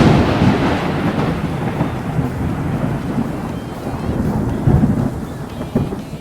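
Thunder rumbling loudly straight after a clap, fading slowly, with a fresh swell of rumbling about five seconds in, over falling rain.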